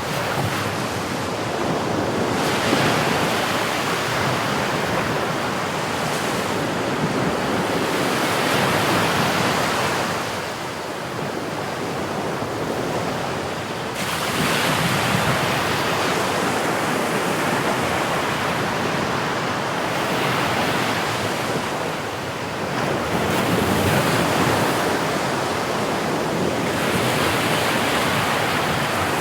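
Sea surf: waves breaking and washing in as a continuous rush, swelling every several seconds as each wave comes in.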